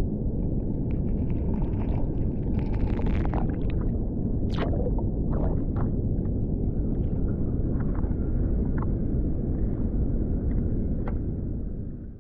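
Steady low rumble of wind and water on an open-water kayak, with scattered small knocks and splashes.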